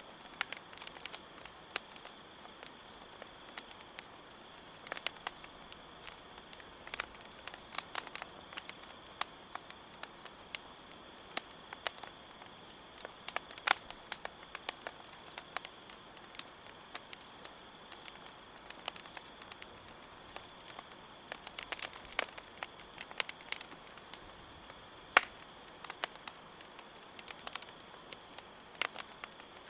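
Campfire crackling, with irregular sharp pops scattered throughout, over a steady high trill of crickets.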